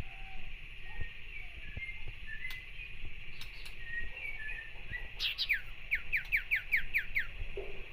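Sirtu songbird calling: scattered short whistled notes, then about five seconds in a fast run of about seven sharp downward-sweeping notes, the harsh chattering 'cetrekan' that keepers use to rile a rival bird.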